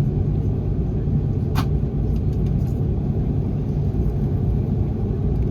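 Steady low rumble inside the passenger cabin of an Airbus A330-300, from its engines and the air around it, with one short sharp click about a second and a half in.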